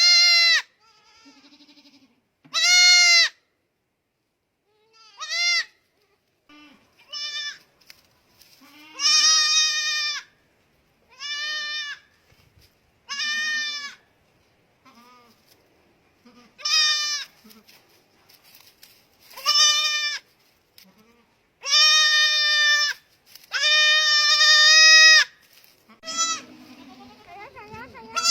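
Young goat bleating over and over: about a dozen high-pitched calls with pauses between them, some short, some drawn out for a second or more.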